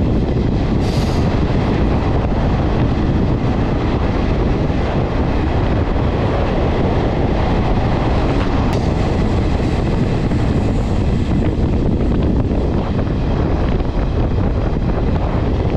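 Express passenger train running at speed, a steady loud rumble of wheels on rails and rushing air heard at an open coach door, much of it while passing through a tunnel.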